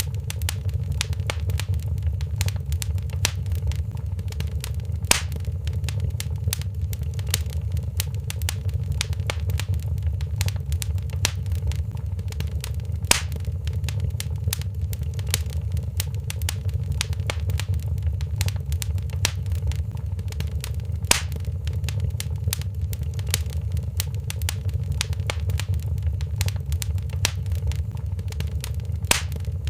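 Wood fire crackling in a fireplace: dense small snaps and ticks over a steady low rumble, with a few louder pops about every eight seconds.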